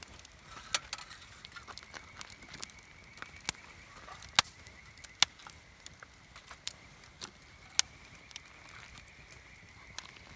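Wood campfire crackling, with sharp irregular pops and snaps from the burning logs, a few of them much louder than the rest. A faint steady high hum runs underneath.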